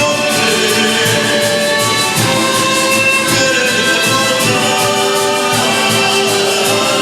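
Youth orchestra of Latin American folk instruments playing live: held melody notes over a dense, steady accompaniment.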